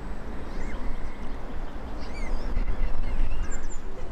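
Birds chirping, several short high calls mostly in the second half, over a steady loud noise heavy in the low end.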